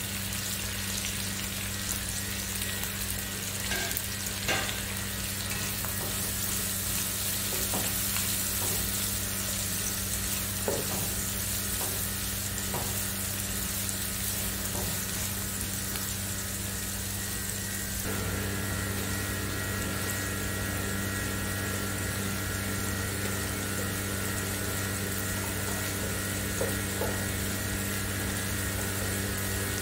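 Sliced onions, green chillies and garlic sizzling steadily in hot oil in a nonstick wok, with occasional clicks and scrapes of a metal spoon stirring them. A steady low hum runs underneath, and a few more steady tones join it about two-thirds of the way through.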